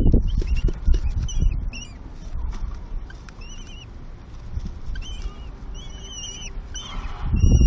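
Common kestrels giving short, high, wavering chirps, repeated in clusters. Low thuds come near the start and again near the end.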